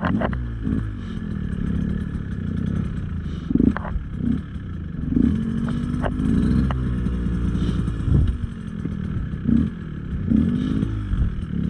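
Two-stroke enduro dirt bike engine revving up and down in short bursts as it is ridden over rough trail, with clatter and knocks from the bike.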